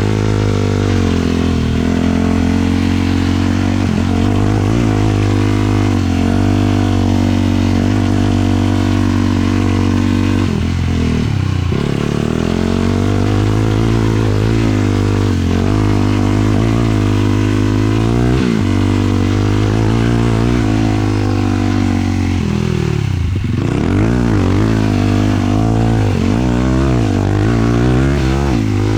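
Single-cylinder 450cc sport quad engine running under way, holding a mostly steady pitch, with the throttle eased off and picked back up twice: once about a third of the way in and once late on.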